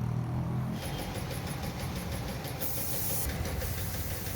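An engine running, with a loud hiss for under a second about two-thirds of the way through.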